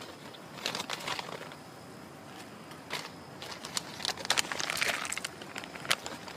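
Crinkling and crackling of something being handled, in irregular short bursts that grow busier in the second half.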